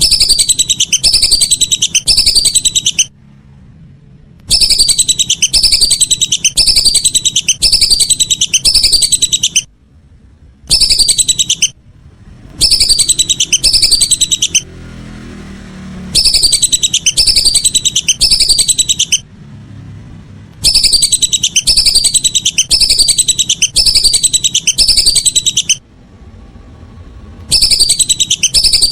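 Whistling duck calls: rapid runs of falling whistles, about four a second, in loud bouts of one to five seconds separated by short pauses, repeated evenly like a looped lure recording.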